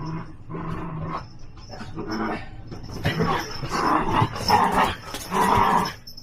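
Miniature Pinscher puppy growling and barking in a string of short bursts, louder in the second half, as a puppy does when it wants to play.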